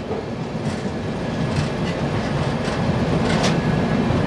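Passenger train coach rolling over the track as it pulls into a station: a steady low rumble of the running gear with a few sharp wheel clacks over the rail joints.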